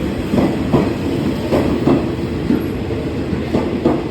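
Train wheels rolling over the rails with a steady rumble, clacking over rail joints in pairs of knocks about a third of a second apart, three or four pairs in all.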